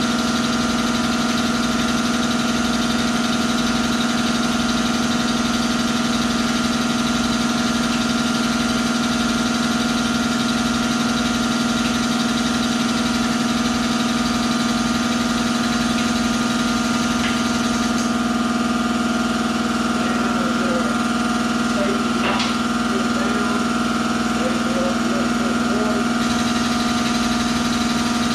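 The air-powered drive of an air-over-hydraulic motorcycle lift runs steadily at a constant pitch while the lift is raised. The noise holds at an even level throughout.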